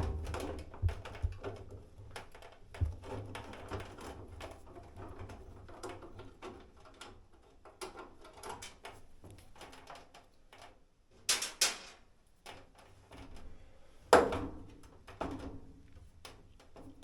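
Hands working on a dryer's sheet-metal front and plastic lint filter housing: irregular clicks, taps and light knocks of metal and plastic parts, with a few louder knocks at the start, about eleven seconds in and about fourteen seconds in.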